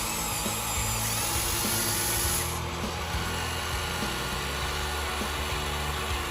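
Small electric gear motors of a radio-controlled construction model whining in a steady, drill-like way; a higher whine joins about a second in and stops before three seconds. Background music plays underneath.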